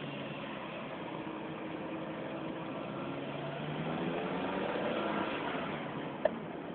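Car engine running while driving, heard from inside the cabin; its note rises a little under acceleration about four seconds in, then eases off. A short click near the end.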